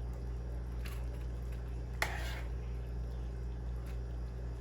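Spoon scooping soupy pasta and its juices from the pan into a bowl: a few short scrapes and clinks, the sharpest about two seconds in, over a steady low hum.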